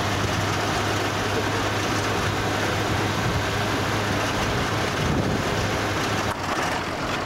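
A vehicle engine running steadily, heard as a low hum under a steady rushing noise. The hum drops away about six seconds in.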